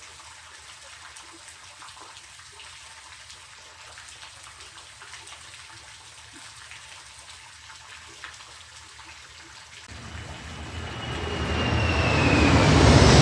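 Faint steady trickle of water with scattered small drips. About ten seconds in, a loud low rumble with high whining tones that slide downward swells up and keeps growing louder.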